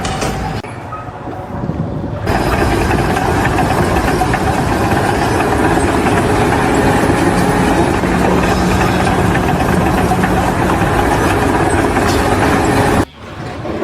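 A heavy engine running steadily, loud and noisy with a faint low hum. The sound changes abruptly about two seconds in and drops out briefly near the end.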